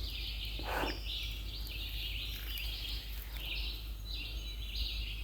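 Summer insects shrilling in a steady chorus of short buzzing phrases, one after another about every half second, over a low steady rumble of the river.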